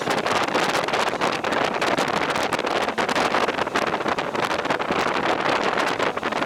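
Steady rush of wind buffeting the microphone while riding on a two-wheeled vehicle, with many short crackles and no clear engine note.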